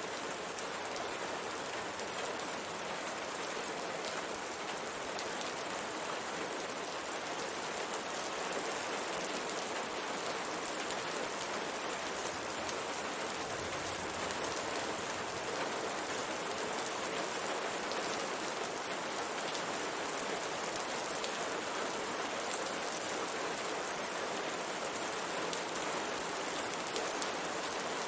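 Steady rain falling on window glass: an even hiss of rainfall with faint taps of single drops.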